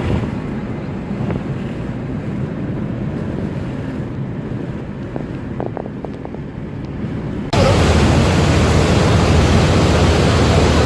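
Steady rush of wind and sea, with wind buffeting the microphone. About seven and a half seconds in it cuts abruptly to a louder, deeper steady rumble.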